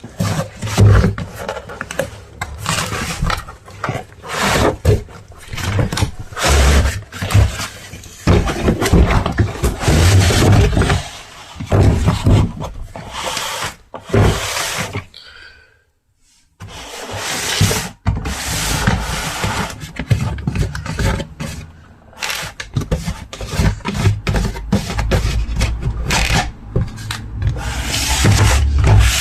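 Irregular rubbing and scraping noises in uneven strokes, stopping briefly about halfway through.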